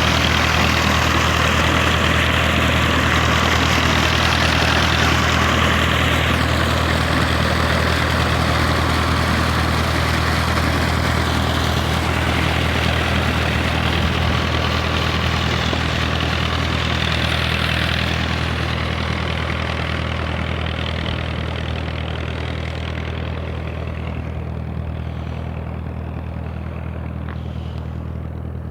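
Perkins four-cylinder engine running steadily at constant speed, driving a coupled 6-inch high-pressure centrifugal water pump. The sound grows gradually quieter through the second half.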